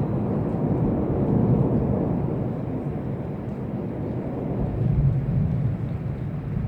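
Low, rolling rumble of thunder in a thunderstorm, swelling about a second and a half in and again near the end.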